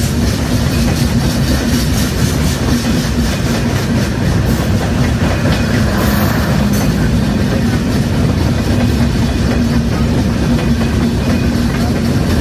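Train running along the track: a loud, steady rumble of wheels with a clickety-clack over the rail joints and a steady low hum.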